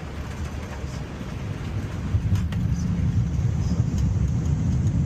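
Airbus A320 rolling out on the runway after touchdown, heard from the flight deck: a low rumble of engines and runway, building louder about two seconds in.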